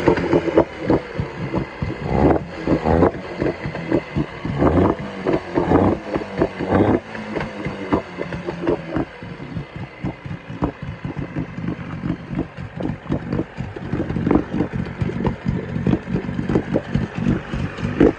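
1970s Yamaha 20A two-stroke outboard engine running at low speed, a fast, slightly uneven train of exhaust pulses that is louder in the first several seconds and again about two-thirds of the way through.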